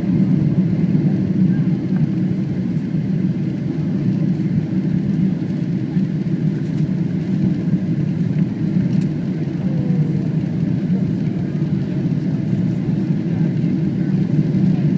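Steady cabin noise inside a Boeing 777 airliner: a low, even rumble of engines and rushing air.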